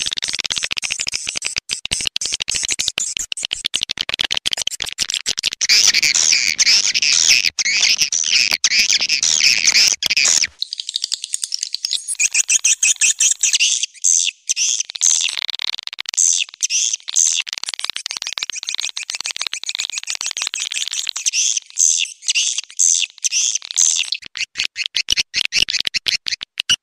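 Recorded swiftlet calls played as a lure for a swiftlet house: a dense, continuous twittering of many overlapping high chirps and rapid clicks. A faint low hum runs underneath in the first half and cuts off abruptly about ten seconds in.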